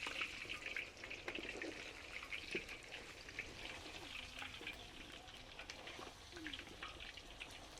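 Faint sizzling and irregular crackling of food frying in a cooking pot.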